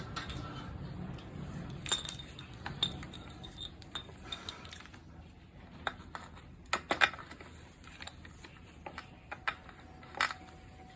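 Irregular light metallic clinks and knocks of tools and small parts being handled, with sharper knocks about two, seven and ten seconds in.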